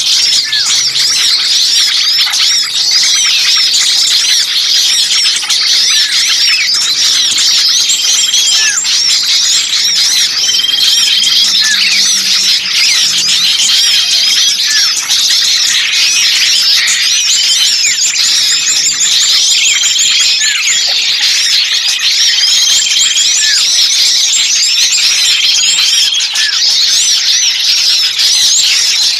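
Bird-luring recording of many small birds calling at once: a dense, continuous tangle of high chirps, quick up-and-down notes and short repeated trills. This is the noisy 'kejepit' mix, meant to imitate birds in distress and draw other birds in.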